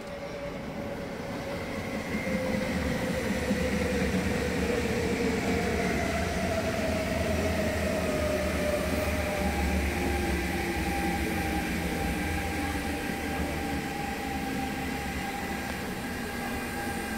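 MTR Tung Chung line A-train electric multiple unit running past at low speed: a steady rumble from the train with a motor whine that slides down in pitch over the first few seconds, then holds steady. The sound swells about two seconds in as the train comes close.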